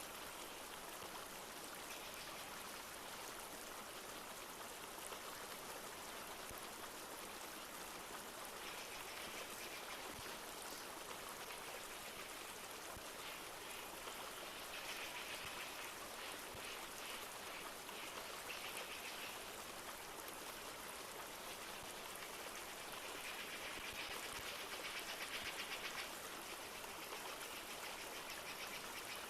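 Flowing river water running steadily, mixed with light rain. Over it a high, rapid trill comes and goes several times and is loudest near the end.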